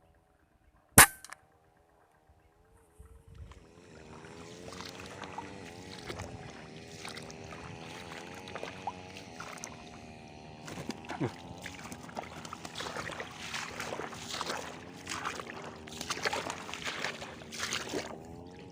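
A single sharp gunshot about a second in, the loudest thing here, fired at rice-field birds. From a few seconds in, a steady wavering hum with many short rustling or splashing noises over it.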